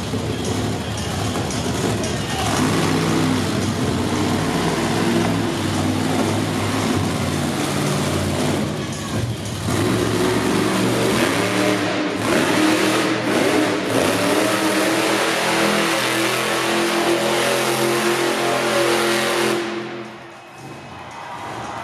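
Monster truck engine revving hard through a freestyle run, its pitch climbing and falling again and again, then falling away sharply near the end.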